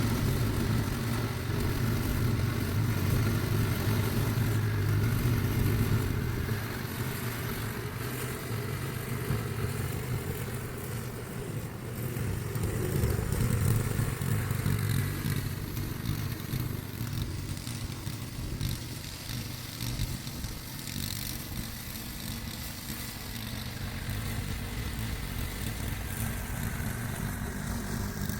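Snowblower engine running steadily under load, easing a little about six seconds in and rising again around fourteen seconds.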